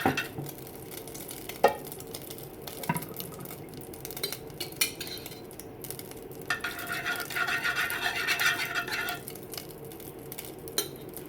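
Eggs being beaten with a utensil against the dish, a rapid scraping and clinking stir. It comes in a dense burst about two-thirds of the way through, with a few single knocks of the utensil earlier.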